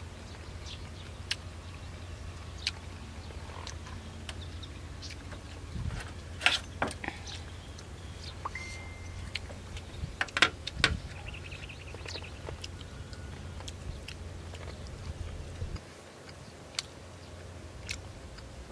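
Close-up chewing and mouth sounds of a person eating boiled chicken and fresh vegetables with his fingers: scattered wet clicks and smacks, a few louder ones between about six and eleven seconds in, over a steady low hum.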